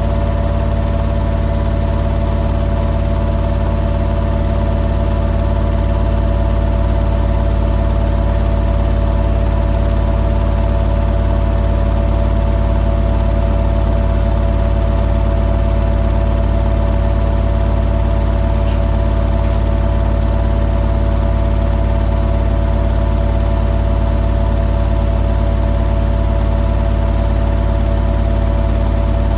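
Hoover New Wave Plus 5 WA1300 washing machine on its final spin, the drum spinning at a steady high speed: a deep rumble under a steady whine.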